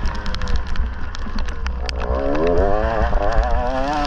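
Dirt bike engine being ridden, its pitch climbing and wavering up and down from about halfway through, over a heavy low rumble of wind and many sharp ticks.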